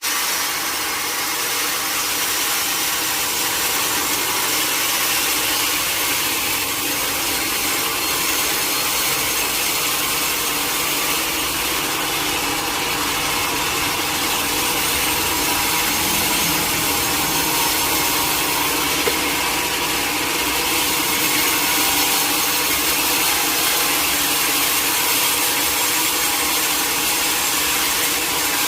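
Sawmill saw cutting through a teak log: a steady, unbroken cutting noise with a hissing, high-pitched edge.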